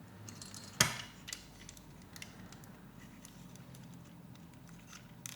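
Plastic Lego Technic pieces clicking and rattling as they are handled and pressed together, with one sharp snap about a second in and a few lighter ticks after it.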